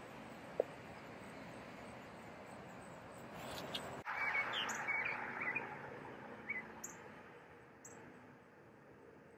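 Outdoor ambience: a steady background hiss that swells about three seconds in, then a few short bird chirps.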